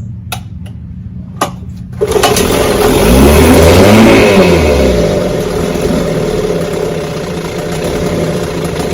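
A vintage outboard motor starts abruptly about two seconds in after a few clicks, its speed swinging up and down for a couple of seconds before it settles into steady running. It keeps running only while its fuel primer bulb is pumped by hand, the sign of a bad fuel pump.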